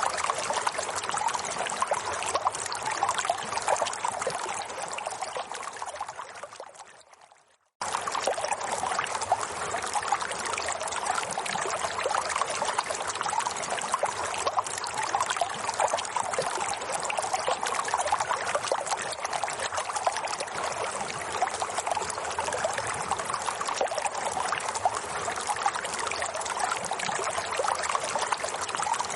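Running water trickling and splashing steadily. It fades out about six seconds in, is gone for a moment, then cuts straight back in at full level just before eight seconds, like the joint where a looped recording starts over.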